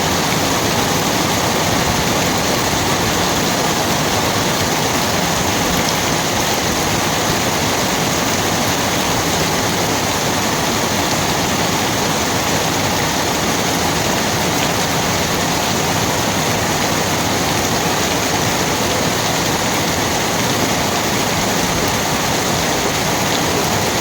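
Rain falling steadily: a dense, even hiss that keeps the same strength throughout.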